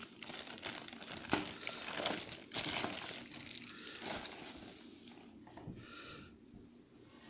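Watch packaging crinkling and rustling as it is handled and pulled out of the box. The crackling dies down after about five seconds.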